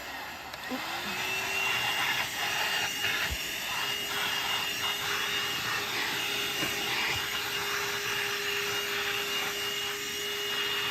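Corded 12-volt car vacuum cleaner running: a steady motor whine over a rush of air. Its pitch dips about half a second in and climbs back within a second, then holds steady. The owners find it has little suction.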